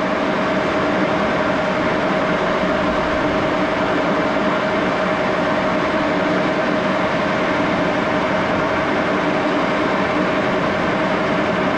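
Axelson engine lathe running steadily, an even mechanical hum with one constant tone held throughout.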